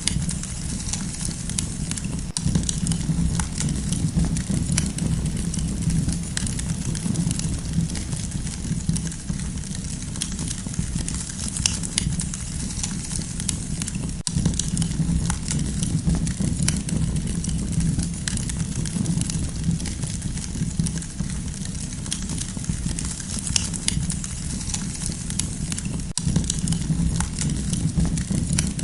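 Wood campfire burning, with frequent small crackles and pops over a steady low rumble.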